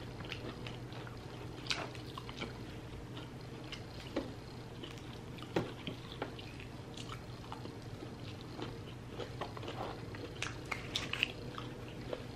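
Close-miked chewing and biting of a fried chicken sandwich and nuggets, with scattered short, soft mouth smacks.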